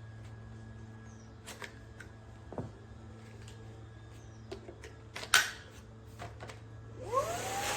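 Cordless stick vacuum switched off, with scattered light clicks and knocks of handling and one sharper click about five seconds in. Near the end its motor spins up again with a rising whine.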